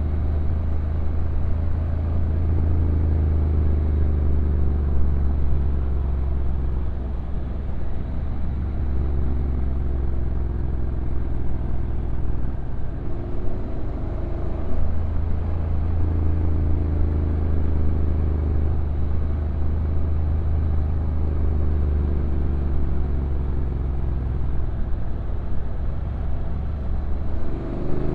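Honda NC750X's parallel-twin engine running as the motorcycle rides downhill, with a strong low rumble. The engine note sinks and rises several times as the bike slows and picks up, with a short dip about halfway through.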